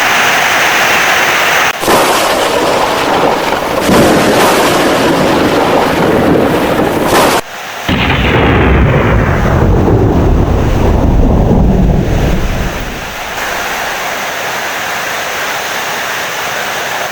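Thunderstorm: heavy rain with thunder rumbling. The sound drops out briefly about halfway through, then a deep thunder rumble swells and fades into steadier rain.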